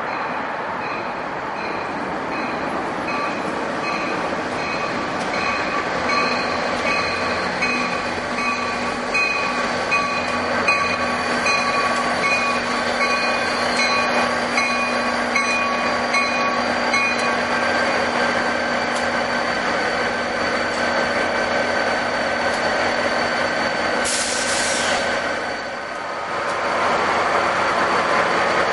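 NJ Transit diesel-hauled commuter train moving through the station: a steady rail rumble with high tones above it. A ringing tone repeats at an even pace until a little past halfway and then stops. Near the end there is a short falling hiss.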